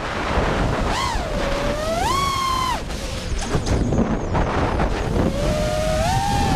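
FPV racing-drone motors whining, the pitch rising and falling with the throttle, over heavy wind buffeting on the microphone.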